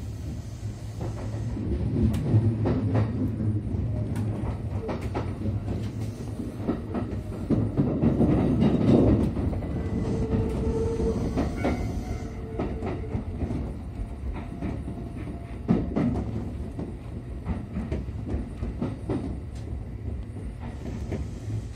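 Kintetsu electric train running over station pointwork: a steady low rumble with the wheels clattering and clicking over rail joints and turnouts, loudest about eight to nine seconds in.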